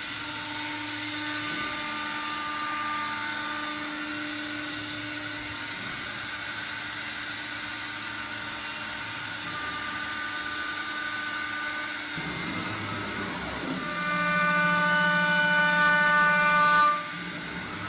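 Legacy 9614 CNC router running, its spindle giving a steady high whine over the machine's drive noise. About three-quarters of the way through it grows louder for a few seconds, then drops off suddenly near the end.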